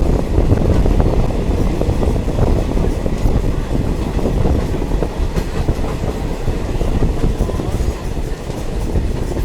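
Diesel multiple unit train running along the track: a steady rumble of wheels on rails with scattered clicks.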